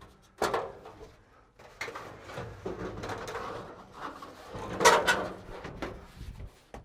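Irregular clunks, scrapes and rustling of parts being handled and shifted inside a small aircraft cabin, with the loudest knock about five seconds in.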